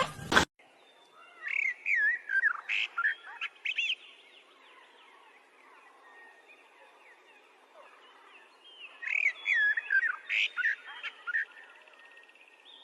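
Bird chirping: quick, high, sliding chirps in two bursts of a few seconds each, one shortly after the start and one in the second half, with little sound between.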